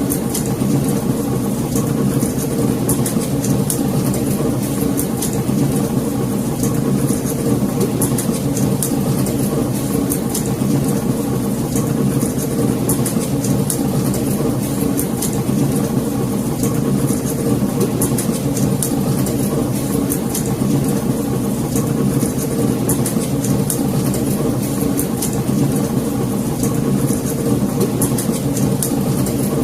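Wood fire burning in a fireplace: a steady low rush of flames with many small, sharp crackles and pops throughout.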